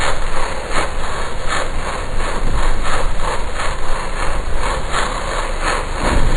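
Harsh noise-music drone: a dense, loud wash of noise that pulses in a quick, uneven rhythm.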